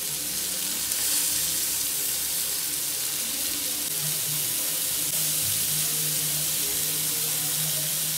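Skewered chicken malai tikka sizzling steadily in hot oil in a frying pan while the skewers are turned over.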